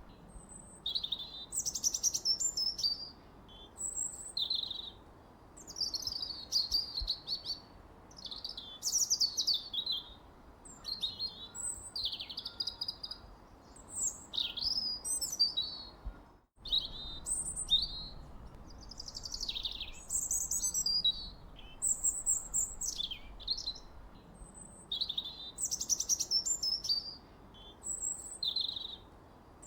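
Songbirds chirping and singing, a busy run of short, high, quickly sliding chirps and trills overlapping one another over a faint hiss. The sound cuts out for a split second about halfway through.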